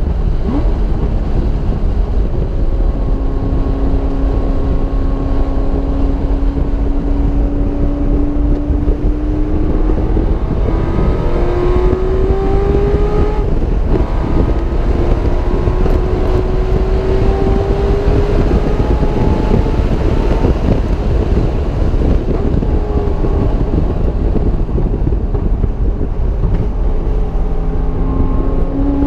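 Car engine running hard at speed on a racetrack, its note slowly climbing under acceleration and falling back a few times, buried in heavy wind and road noise.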